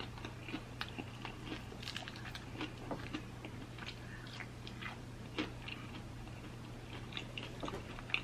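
A person biting and chewing a fried chicken wing coated in hot sauce, close to the microphone: quiet, irregular small clicks and smacks of eating.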